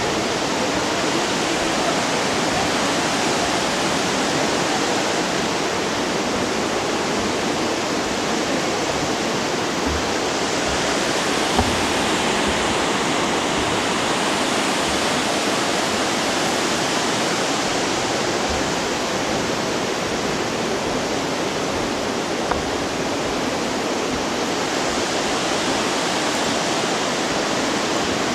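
A waterfall's water falling and splashing: a steady, even rush of noise with no let-up. Two faint brief knocks sound about a third and three quarters of the way through.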